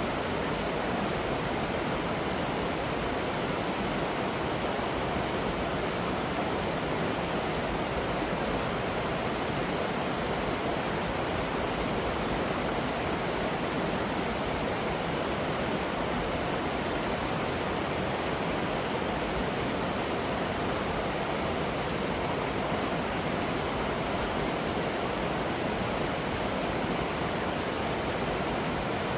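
Waterfall rushing steadily: a constant, even wash of falling water with no breaks.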